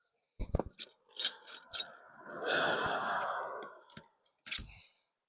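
Sockets and hand tools being handled, giving scattered sharp metallic clicks, with a breathy rush about a second long in the middle and one more click near the end.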